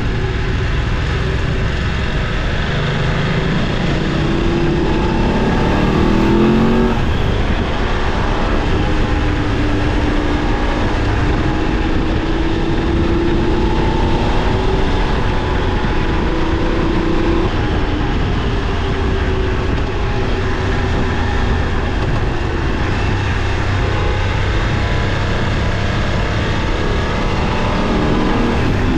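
Motorcycle engine running while riding, over a steady rushing noise. The engine note climbs between about four and seven seconds in as the bike accelerates, then holds fairly steady.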